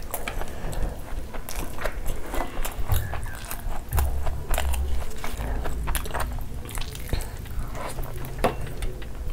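Close-miked eating with the hands: wet chewing and lip smacks, with many small irregular clicks, as rice and mutton curry are eaten.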